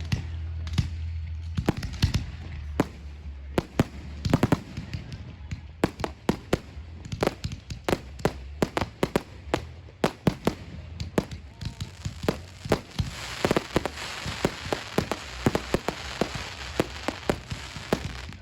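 Aerial fireworks show: a rapid, near-continuous string of bangs and pops from bursting shells. From about thirteen to seventeen seconds in, a dense crackling hiss rises over the bangs.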